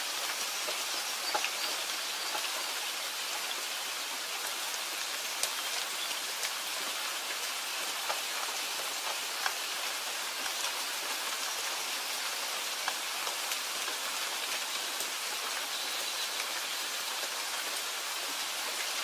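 Steady rain falling, an even hiss with individual drops ticking sharply here and there on a surface.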